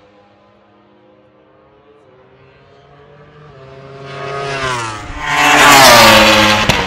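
Race car engine passing at speed: the note grows louder as the car approaches and drops in pitch as it goes by, about six seconds in. It is loudest at the pass.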